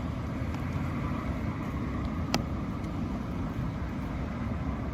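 Steady low outdoor rumble, with one sharp click about two and a half seconds in.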